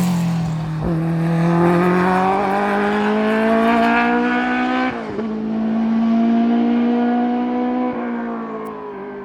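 Race car engine accelerating hard through the gears: the pitch climbs for about five seconds, drops sharply at an upshift, climbs again, then drops at another shift near the end as the car fades into the distance.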